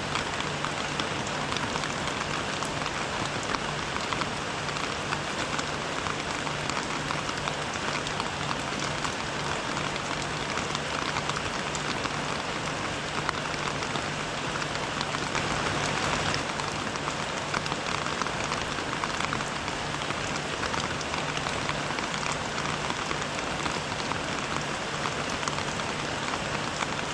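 Steady rain falling, a dense even patter of many small drop ticks, with a faint low hum underneath.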